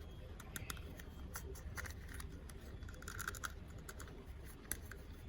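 Scattered light clicks and soft scratching of plastic toys and packaging being handled during an unboxing.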